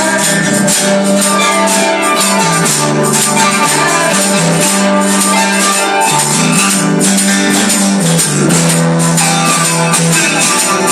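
Live gospel band playing an instrumental passage without singing: sustained bass notes moving in steps under a steady percussion beat.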